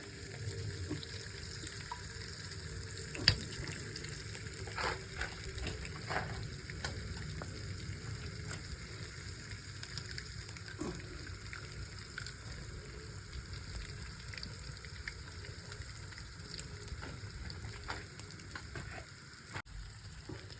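Food frying in a pan, a steady sizzle with scattered crackles and ticks, and one sharp click about three seconds in.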